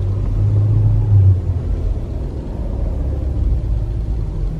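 Low rumble of a car driving, heard from inside the cabin, a little louder in the first second or so.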